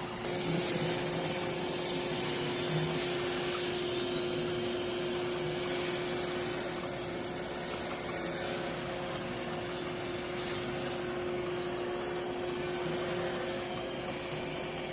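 iRobot Roomba j7 robot vacuum running, a steady motor hum with a constant tone over the whirr of its suction and brushes, working normally again with its dust bin emptied.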